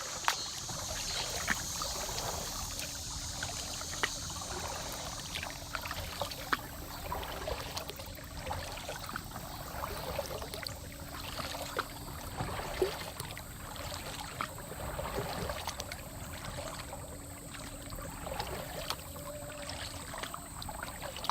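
Water trickling and lapping around a flat-water kayak drifting with the current, with scattered small clicks and knocks. A faint steady hum runs underneath.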